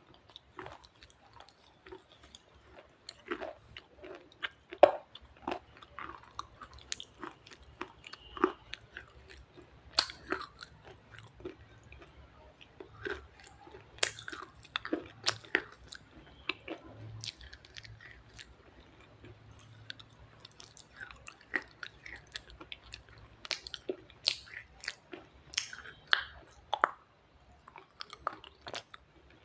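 Wet red shale being bitten and chewed close to the microphone: a continuous irregular run of sharp crunches and crackles, several a second.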